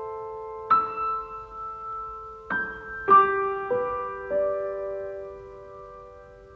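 Background music: slow, soft piano, single notes and chords struck a few at a time and left to ring and fade.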